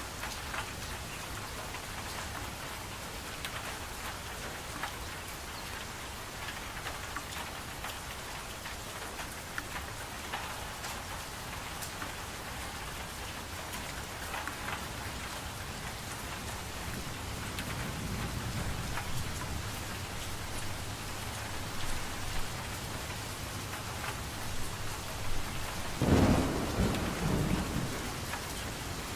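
Steady rain falling, with scattered drop ticks. A low rumble of thunder swells about two-thirds of the way through, and a louder roll of thunder comes near the end.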